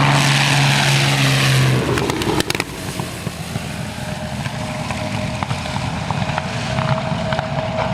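A propeller aircraft's engine drone, loud and steady in pitch, stops abruptly about two seconds in. Quieter outdoor background noise with a few clicks follows.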